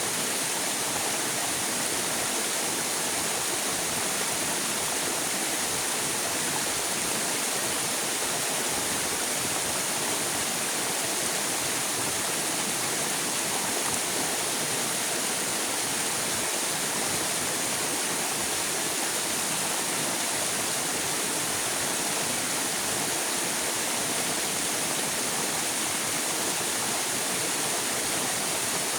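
River water flowing, a steady even rush that does not change.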